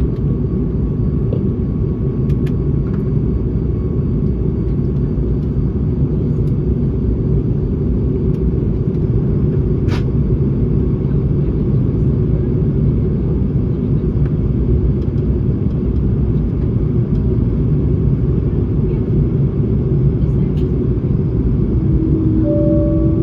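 Steady low rumble of an Airbus A220-300 cabin, engine and air noise heard from a passenger seat. A few short steady tones sound near the end.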